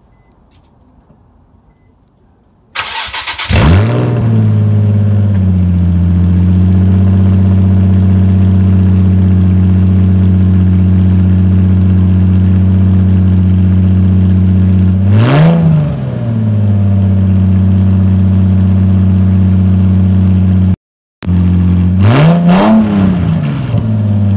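Nissan 350Z's 3.5-litre V6 started up: a short crank about three seconds in, then it catches at a fast idle that drops to a steady idle. It is blipped twice, each rev rising and falling quickly. It is running with its exhaust pulled off.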